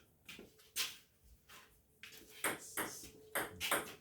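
Table tennis ball in a rally: a string of sharp clicks as it strikes the bats and bounces on the table, coming closer together in the second half.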